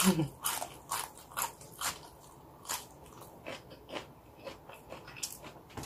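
Close-miked mouth sounds of a person biting and chewing boiled okra with rice: moist crunching chews about two a second, getting fainter after the first couple of seconds.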